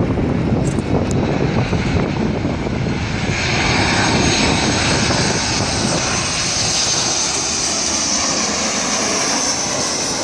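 Jet airliner flying low overhead on its landing approach: low engine rumble, then about three seconds in a loud hissing whine of the jet engines swells in and holds.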